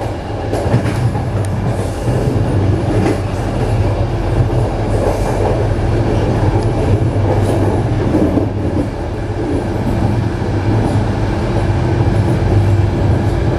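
Passenger train running along the line, heard from on board: a steady rumble of wheels on rail with a few light clicks early on, and a faint steady hum that joins about ten seconds in.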